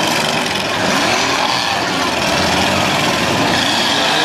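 Demolition derby cars' engines running and revving together in a loud, steady din, their pitch rising and falling.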